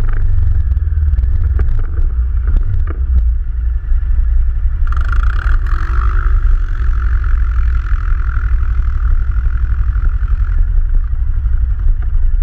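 ATV engine running with a strong, rapidly pulsing low rumble, with a few sharp clicks in the first three seconds. About five seconds in, a hiss joins it and stops about five seconds later.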